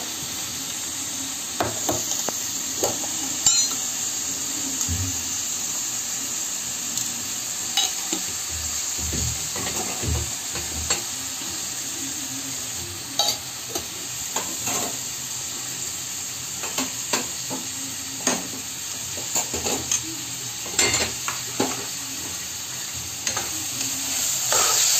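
Onions and peas frying in oil in a pan, sizzling steadily, with scattered clicks and scrapes of a utensil against the cookware.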